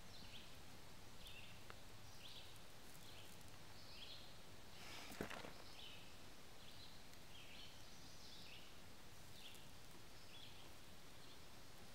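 Faint outdoor ambience with a bird chirping repeatedly, short high chirps a little more than once a second, and a single soft knock about five seconds in.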